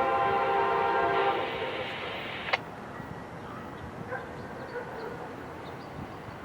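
Locomotive air horn holding a long chord blast that cuts off about a second and a half in. After it comes the quieter steady rumble of the train, with one sharp click near the middle.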